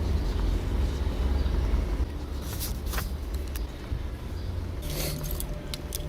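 A steady low rumble, with a few short clicks and ticks about two and a half seconds in and again near the end.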